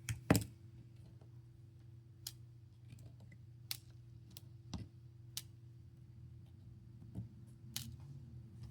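Scattered light clicks and taps of small repair tools against a smartphone's internal parts, about half a dozen spread out, the sharpest about a third of a second in, over a steady low hum.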